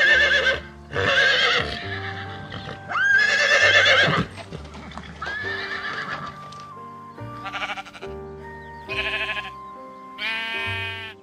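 A pony whinnying several times, long wavering calls, followed near the end by sheep bleating, over background music with held notes.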